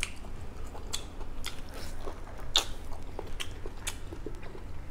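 A person chewing food with her mouth close to the microphone: irregular soft wet smacks and clicks, about two or three a second.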